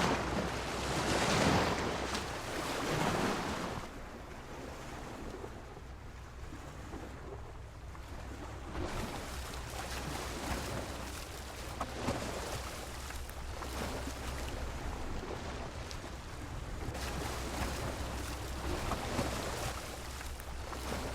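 Sea waves washing and slapping against a pier, surging loudest in the first few seconds and swelling again later, with a few sharp slaps. A steady low rumble of wind on the microphone runs underneath.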